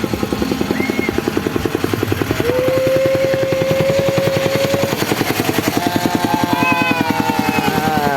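A small engine chugging steadily at a fast even beat, about seven pulses a second. A long held tone sounds over it for a couple of seconds near the middle, and wavering, gliding tones come in near the end.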